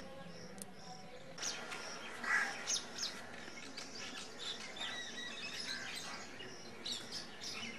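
Birds chirping: a short high call repeated evenly at first, then many quick chirps coming thick and fast from about a second and a half in.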